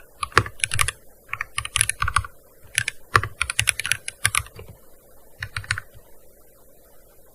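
Typing on a gaming keyboard: quick runs of keystrokes in bursts, then one short run and a pause in the last second or so.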